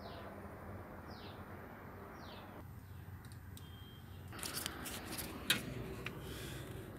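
A bird calls with short falling chirps, three times about a second apart. From about four seconds in there is rustling and clicking handling noise, with a sharp knock about five and a half seconds in.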